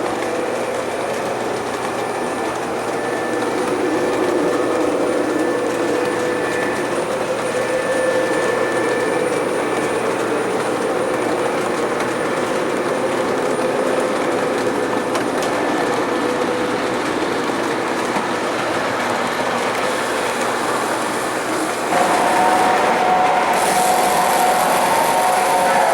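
O scale model train running on the track, a steady mechanical running sound with a few faint steady tones. About 22 seconds in it gets louder and new tones come in, with a brief hiss soon after.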